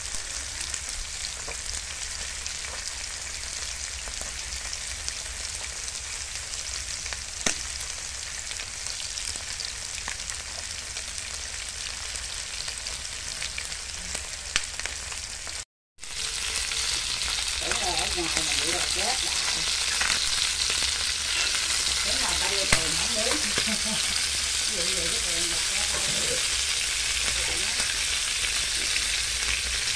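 Pieces of field rat sizzling in hot oil in a frying pan, a steady crackling hiss with a few light clicks. It cuts out for a moment about halfway, then resumes louder.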